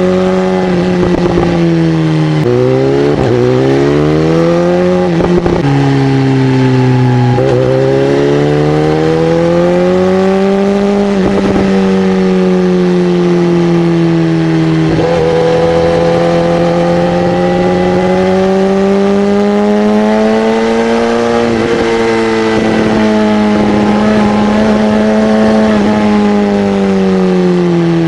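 Honda CB300R's single-cylinder engine under way: its pitch climbs with the throttle and drops back sharply several times as it shifts gears, then it settles into a steady note that slowly rises and falls.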